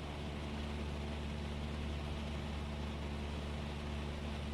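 Cessna 172S's four-cylinder Lycoming engine and propeller droning steadily in level cruise, heard from inside the cockpit.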